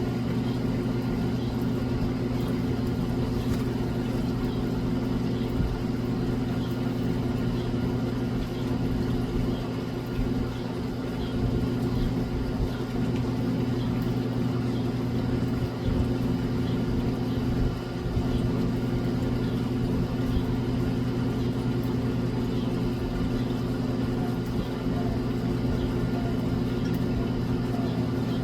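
A steady, even mechanical hum from a motor or engine running nearby, unchanging throughout.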